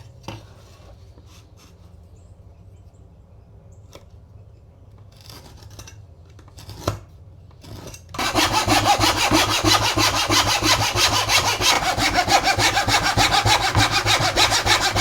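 Hand saw cutting through wood in fast, even strokes, starting about eight seconds in, after a few quiet knocks of handling the wood.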